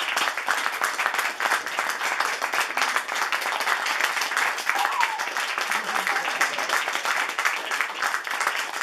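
Audience applauding steadily, a dense continuous clapping with some voices mixed in.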